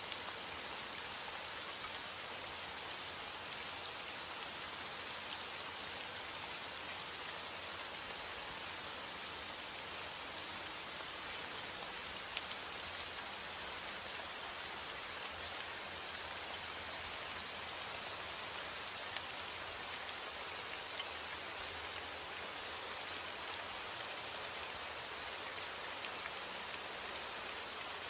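Steady heavy rain, a dense even hiss with scattered individual drops ticking on a surface.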